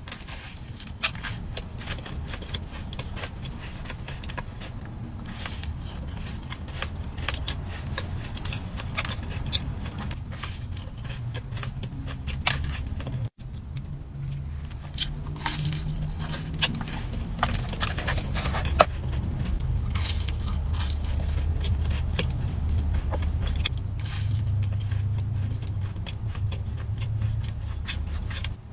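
Close-miked eating sounds: cookies being chewed, with many small wet mouth clicks and crackles over a low rumble. The sound drops out briefly about thirteen seconds in and then carries on.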